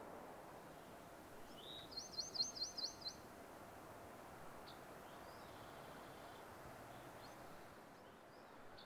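Small bird singing: a short rising note, then a quick run of about six high looping notes some two seconds in, with a few faint chirps later, over a faint steady outdoor hiss.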